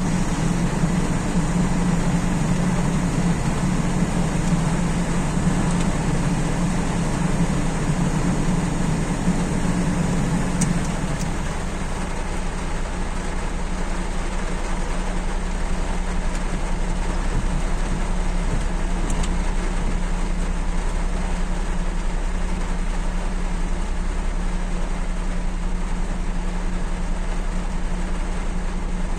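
Steady rain falling, with a low hum under it; the hum drops in level about ten seconds in.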